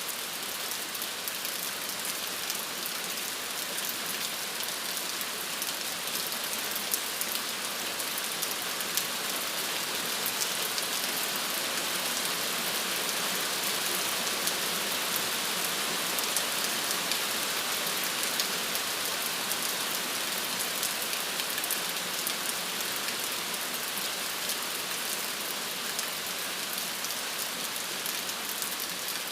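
Steady rain falling, an even hiss dense with fine drop patter, with no let-up or thunder.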